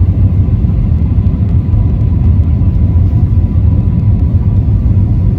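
Airplane cabin noise: a steady low drone of engines and airflow, with a faint steady high tone.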